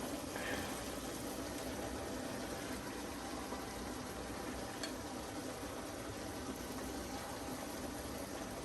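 Pot of cassava boiling on the stove, a steady even noise, with one faint click about five seconds in.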